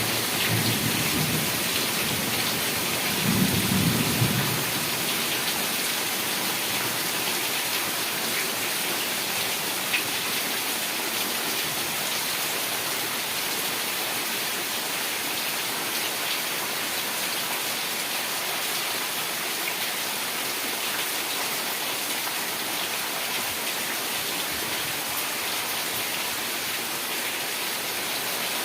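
Heavy rain falling steadily, an even hiss, with two low rumbles of thunder in the first few seconds, the second the louder.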